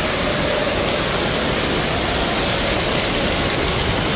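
Steady, loud rush of falling and running water in an indoor water park.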